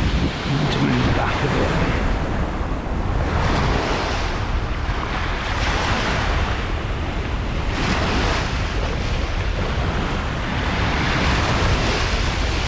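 Sea waves breaking and washing in, surging every few seconds, with wind rumbling on the microphone.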